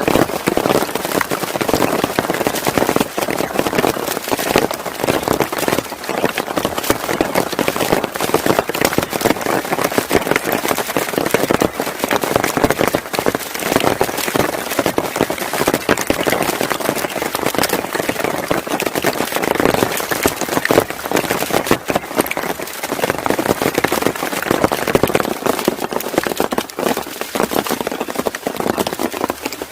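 Heavy rain falling steadily, a dense, even crackle of drops hitting a hard surface.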